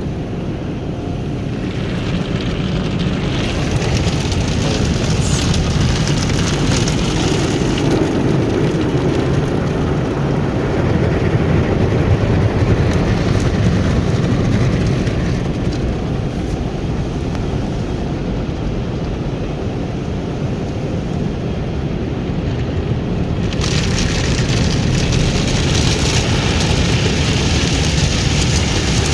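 Automatic car wash running: a steady rush of water spray and machinery over the car. The high hiss of the spray grows about two seconds in, eases off in the middle and comes back strongly near the end.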